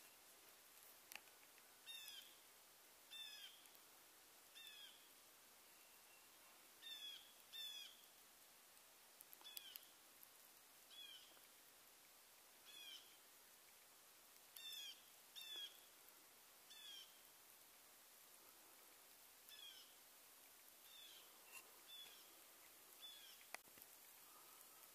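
A bird calling repeatedly, faint: short, falling notes a second or two apart, some in quick pairs.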